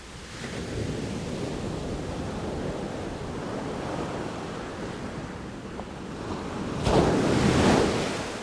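Ocean waves washing ashore in a steady rush of surf, with one louder wave breaking near the end.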